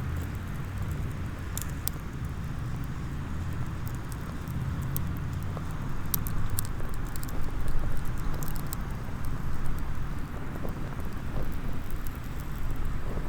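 Small wood campfire crackling, with scattered sharp pops, over a steady low rumble.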